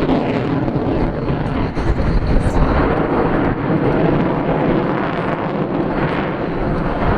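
Lockheed Martin F-22 Raptor's twin Pratt & Whitney F119 afterburning turbofans, heard as a loud, steady jet engine noise from the fighter in flight.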